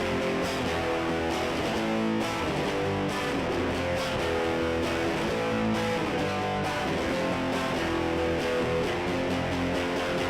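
Fender Stratocaster electric guitar played through a Snarling Dogs Black Dog overdrive/distortion pedal, with a little reverb, running a continuous line of driven notes and chords.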